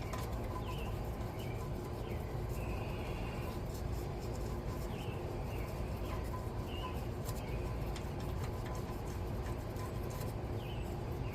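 Birds chirping in short, scattered calls over a steady low background rumble, with a few faint clicks.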